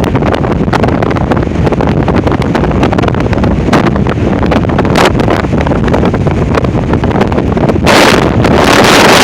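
Strong gusting wind buffeting the microphone, a loud, rough, low rumble that grows louder and brighter as a gust hits about eight seconds in.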